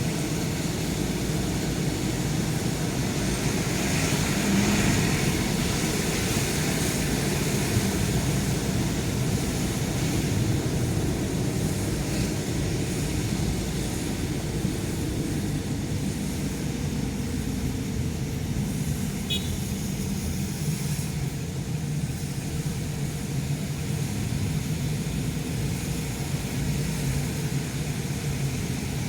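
Steady engine and road noise of a car being driven, with a constant low hum.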